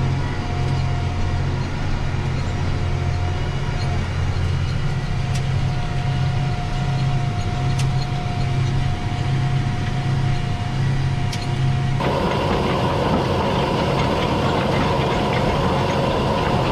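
Tractor engine running steadily, with a faint steady whine over it; about twelve seconds in the sound changes abruptly to a noisier, brighter engine sound.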